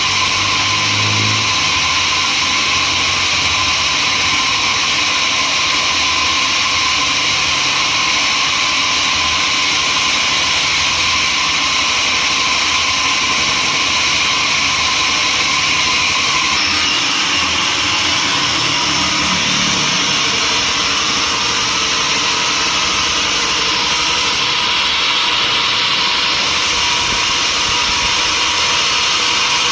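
Sawmill machinery running steadily, a loud even mechanical noise, with a slight shift in its tone a little past halfway.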